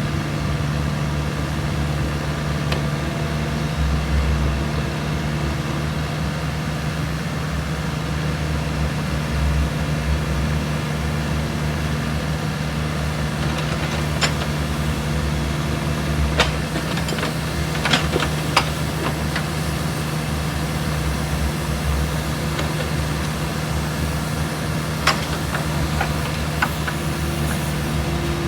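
Kubota U48-4 mini excavator's diesel engine running steadily, with a few sharp clicks or knocks about halfway through and again near the end.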